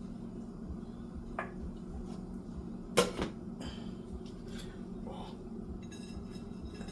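Kitchen dishware being handled while food is plated: one sharp knock about three seconds in and a few lighter clicks, over a steady low hum.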